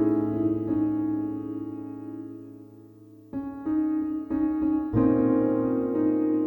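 Background music: soft piano chords that ring and fade, then new chords struck about halfway through.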